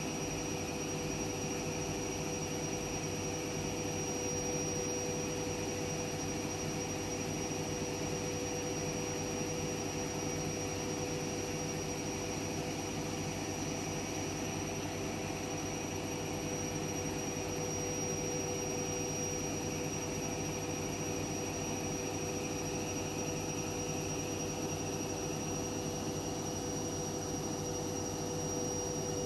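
Washing machine running a load of laundry: a steady mechanical whoosh with a constant motor whine and hum.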